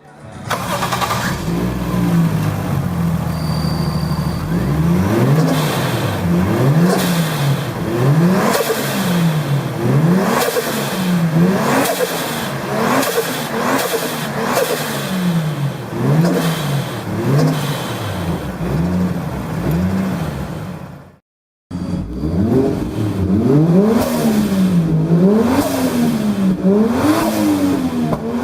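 Toyota 1JZ-GTE 2.5-litre turbocharged straight-six idling for a few seconds, then revved over and over, its pitch rising and falling about every two seconds, with a brief cut-out about three-quarters of the way through. It runs smoothly, in very good health.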